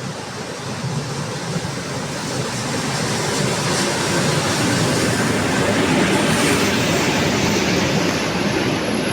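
A train running along the platform track, a steady rumble and rail noise that grows louder over the first few seconds and then holds.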